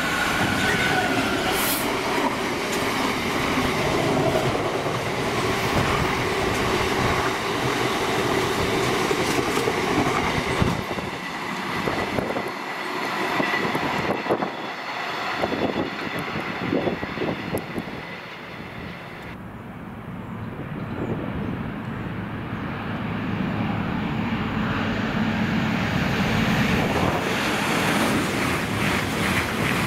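A train passing at speed, with a dense rush of wheel and rail noise. The noise eases about two-thirds of the way through, then builds again near the end.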